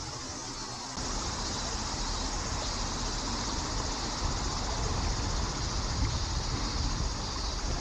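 A steady high insect chorus over a low rumble; the sound steps up in level about a second in.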